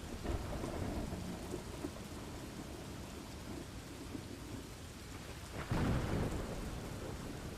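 Thunderstorm ambience: steady rain with low rumbling thunder, swelling louder about three-quarters of the way through.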